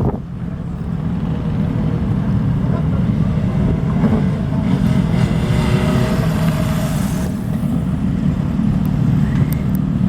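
Motorcycle engines and exhausts running at low revs as bikes ride out, with a steady deep rumble. It gets fuller and louder from about four to seven seconds in as a bike goes by close.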